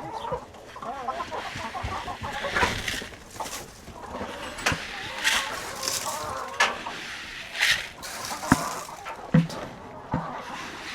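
A flock of hens clucking and calling together. Now and then a sharp click or knock comes through, the sharpest about 8.5 seconds in.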